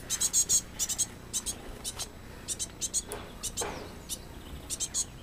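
High, thin chirps from a small songbird, short notes coming in quick clusters, with a brief rustle about three seconds in.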